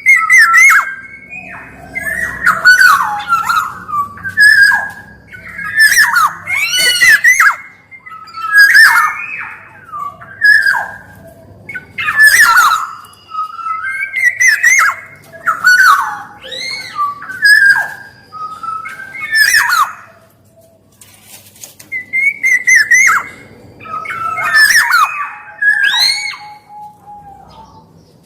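Black-naped oriole (kepodang emas) calling repeatedly: loud fluting whistled phrases mixed with harsher nasal notes, each phrase about a second or two long with short gaps between, and one longer pause roughly two-thirds of the way through.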